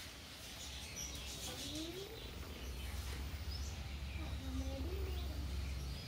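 A few faint, short bird chirps over a steady low hum.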